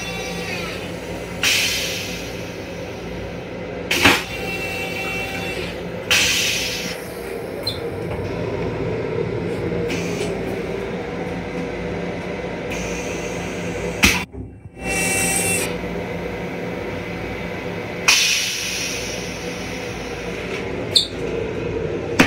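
Steady hum of an M7 electric railcar, heard inside its small restroom. Several short loud noises, each about a second long, break in, and the sound drops out for a moment about two-thirds of the way through.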